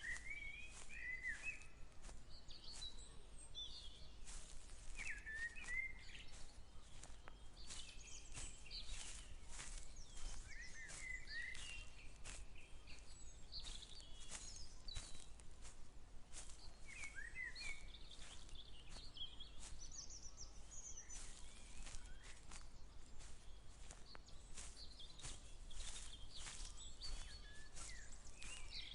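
Several birds singing short chirping phrases on and off, over a steady low outdoor rumble, with a continual run of faint crunching steps, typical of someone walking through grass.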